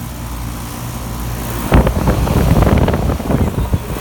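Fedders packaged air-conditioning unit with a scroll compressor running with a steady low hum, quite noisy. About halfway through, a louder run of irregular crackling lasts about two seconds.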